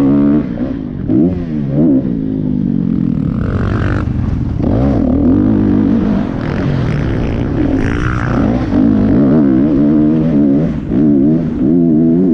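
Motocross dirt bike engines revving hard and easing off again and again, the pitch climbing and dropping with the throttle.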